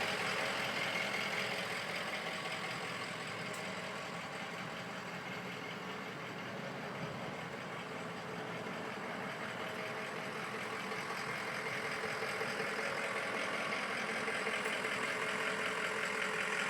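Ford 6.0 L Powerstroke V8 turbo diesel in a 2004 F-550 Super Duty idling steadily. It grows a little fainter in the middle and louder again near the end.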